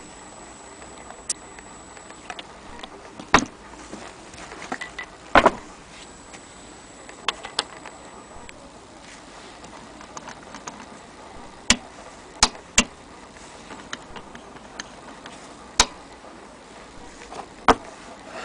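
Antique Jones sewing machine being handled: about ten sharp clicks and knocks at irregular intervals, a few seconds apart, over a steady hiss.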